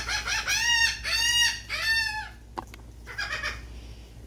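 A seagull calling: a run of quick clear notes, then three longer calls that rise and fall in pitch. A shorter, rougher burst of calls follows about three seconds in.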